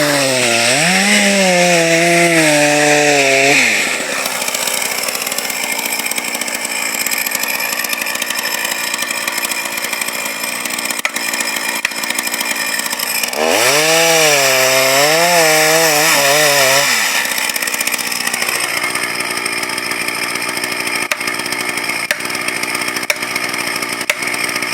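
Two-stroke chainsaw making the felling cut after the notch has been cut. The engine runs at high revs with a wavering pitch for the first few seconds and again from about halfway. In between and near the end it settles to a steadier, lower running.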